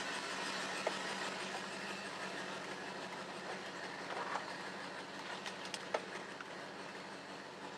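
Steady road and engine noise heard from inside a moving vehicle, with a few light clicks or ticks in the second half.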